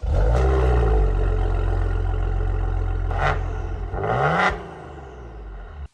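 Car engine running, with two short revs, about three seconds in and again just past four seconds. It then drops back to a lower level and cuts off suddenly near the end.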